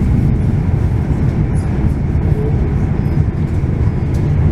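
Passenger train running along the track: a steady, low rolling rumble.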